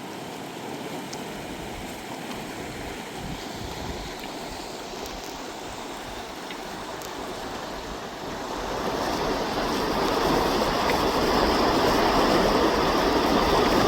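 Steady rushing noise with no distinct tones, growing clearly louder about nine seconds in.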